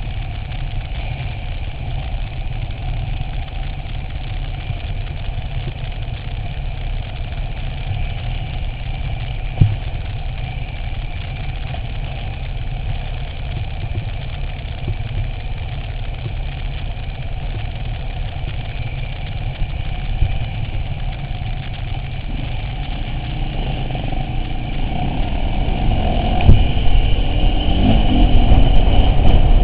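Vehicle engine running steadily at low revs, then getting louder and rising in pitch near the end as it speeds up.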